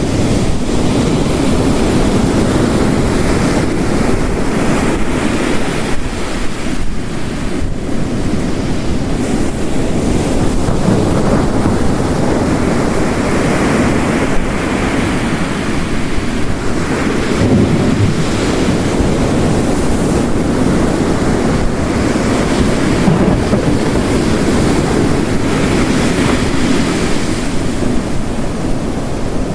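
Ocean waves crashing on a coast, mixed with heavy rain, make a loud, continuous rushing roar that swells every several seconds as waves break.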